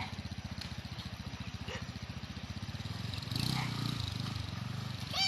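Small motorcycle engine running steadily with a fast, even pulse, getting a little louder about three and a half seconds in. A voice calls out briefly at the very end.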